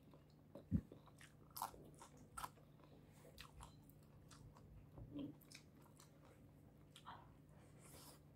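Faint eating sounds of spiced shrimp being bitten and chewed: scattered soft crunches and sharp wet mouth clicks, with a faint steady low hum underneath.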